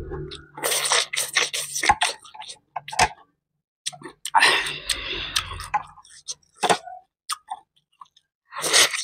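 A person chewing boiled chicken, in irregular bursts of wet mouth sounds with a few sharp clicks between.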